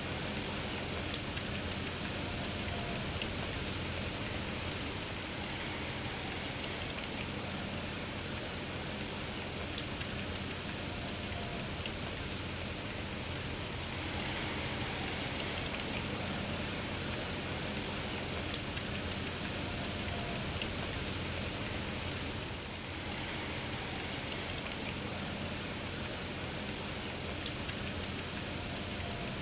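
Steady rain falling as an even hiss. Four sharp, loud drops or taps stand out, evenly spaced about nine seconds apart.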